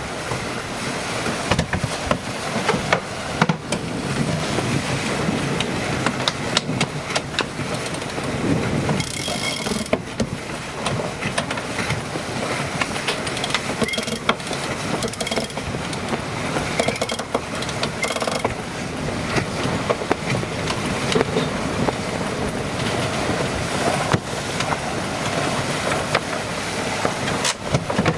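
Wind buffeting the microphone over water rushing along a sailboat's hull under sail, with scattered knocks and clicks throughout.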